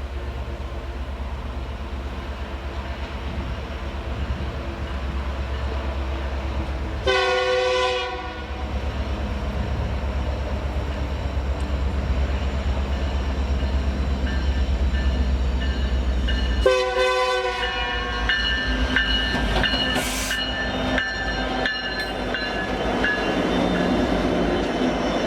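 Diesel freight locomotive passing with a steady deep engine rumble, sounding its air horn twice: a blast of about a second, then a shorter one some ten seconds later. After the second blast the engine sound fades and the wagons roll by with clicking over the rail joints and thin high squeals from the wheels.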